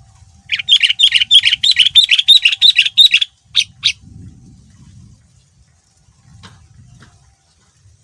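Sooty-headed bulbul singing a fast, loud run of chattering notes for about two and a half seconds, then two single notes. A faint low rumble runs underneath, and there is one click near the end.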